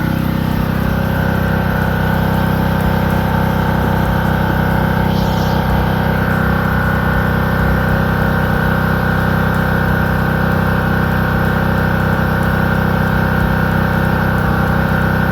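A heavy engine on construction equipment running steadily and loudly at a constant speed.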